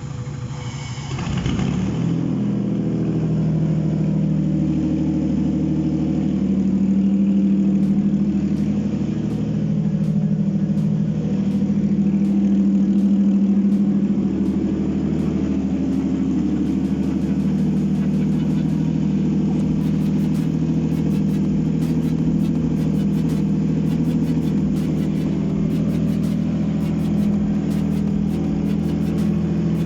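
Toyota 3GR-FE V6 engine on a test stand catching about a second in and then running steadily, swelling slightly in revs twice; this is the first start of a used contract engine, run to check that it is sound.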